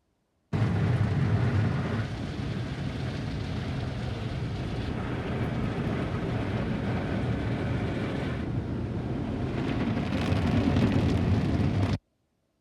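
Car wash tunnel equipment running: a loud, steady rush of spraying water over a low mechanical rumble. It cuts in sharply about half a second in and cuts off abruptly near the end.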